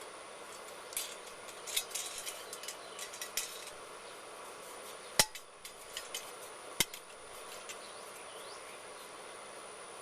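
Small metal clicks and taps of stainless steel bolt-and-wing-nut hardware being handled and fitted, with two sharper clinks a little past halfway, about a second and a half apart.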